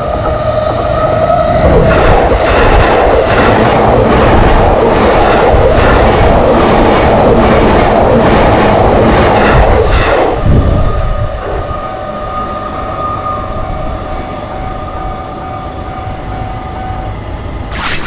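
Train passing a railroad crossing: a loud rumble with a rhythmic clickety-clack of wheels over rail joints, about one and a half clacks a second, for about eight seconds. It then falls to a quieter running sound with steady high tones, and cuts off suddenly just before the end.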